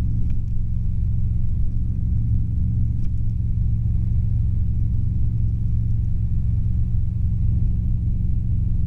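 Robinson R22 helicopter's four-cylinder Lycoming piston engine and rotors droning steadily in flight, heard inside the cabin as a constant low hum.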